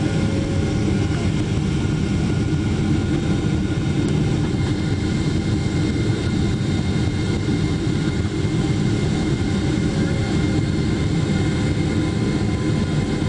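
Steady cabin noise inside a Boeing 777-300ER airliner in flight: a dense, even rush of airflow and GE90 jet engine noise, with faint steady tones above it.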